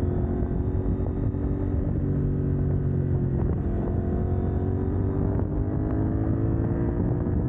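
CF Moto 800NK's parallel-twin engine, catalytic converter removed, pulling on the move. Its note climbs steadily, drops back about two seconds in and again a little past three seconds, then climbs again, as with gear changes.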